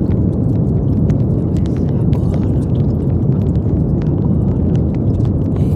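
Brown noise: a steady, deep rushing hiss weighted to the low end, unchanging in level.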